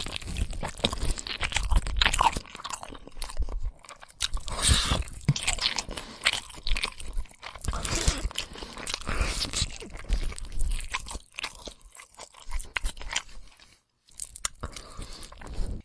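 Irregular crunching and crackling noises close to the microphone, rising and falling in loudness, with a brief stop near the end.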